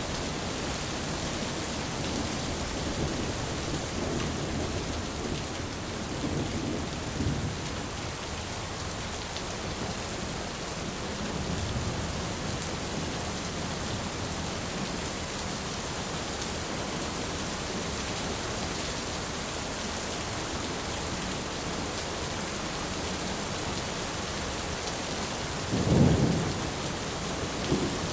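Steady heavy rain with rumbling thunder, low rolls in the first half and a sharper, louder thunderclap near the end.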